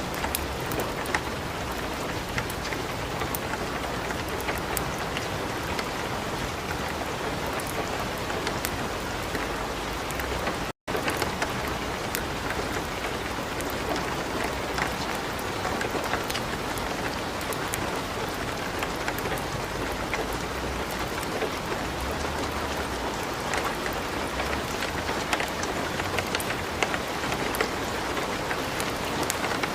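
Steady light rain mixed with the crackle of a wood fire in a fireplace: an even hiss sprinkled with small, irregular snaps. Everything drops out for a split second about eleven seconds in.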